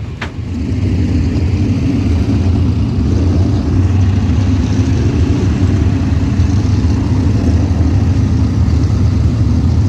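Race car engine running loud and steady, swelling up in the first second and then holding an even pitch.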